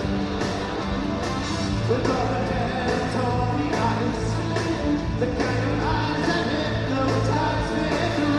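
Live new wave band playing with drums, a steady bass line and a lead vocal, recorded from the audience in a large arena.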